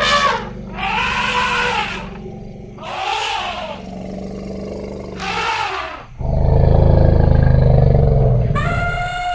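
Elephants calling: several short moaning calls that rise and fall in pitch over a low rumble, then a loud, deep rumble about six seconds in, and a high trumpet starting near the end.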